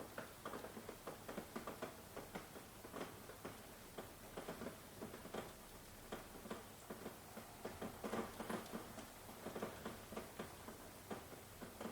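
Rain falling, with many close, irregular drops tapping and pattering over a steady hiss.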